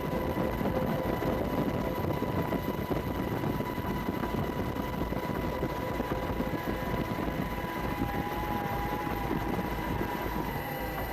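Steady engine drone with a dense rushing noise, overlaid by faint, constant high whining tones. A faint wavering tone comes in near the end.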